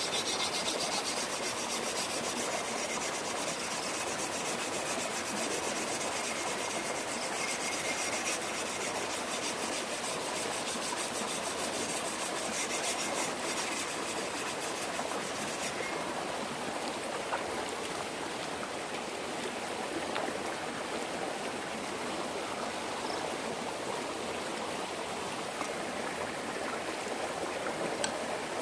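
A knife blade rubbed back and forth on a wet natural sharpening stone, a rasping scrape over the steady rush of flowing stream water. The scraping stops about halfway through, leaving the water alone.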